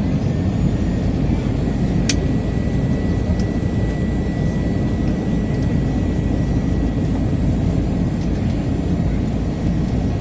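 Steady cabin noise of an Airbus A321-211 in flight: its CFM56 turbofans and the airflow over the fuselage make an even, unbroken low rush. A single sharp click sounds about two seconds in.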